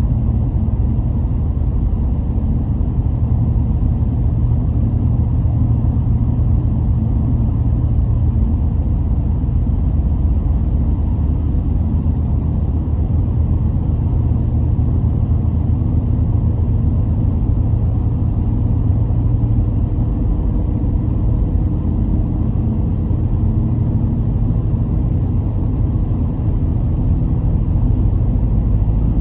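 Car driving along at a steady pace: a low, even rumble of engine and road noise.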